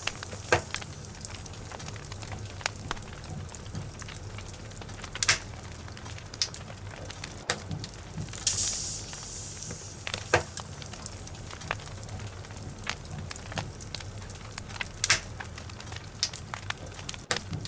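Logs burning in a fireplace, crackling with sharp pops at irregular intervals, with a brief hiss about halfway through.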